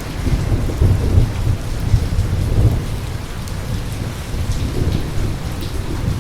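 Steady rain with a low rolling rumble of thunder that swells at the start and is loudest over the first few seconds.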